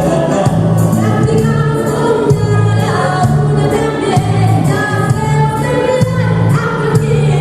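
Music: a choir of voices singing together over an instrumental accompaniment with a repeating bass line.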